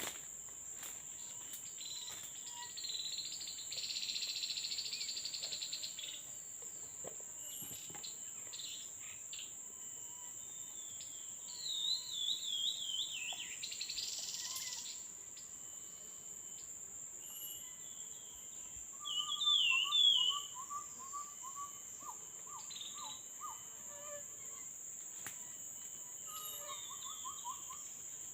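Forest ambience: a steady high-pitched insect drone, with repeated wavering, trilled calls of small forest birds (babblers, from live birds and a phone's lure recording) and a fast run of lower notes about twenty seconds in and again near the end. Two short bursts of harsher insect buzzing come about four and fourteen seconds in.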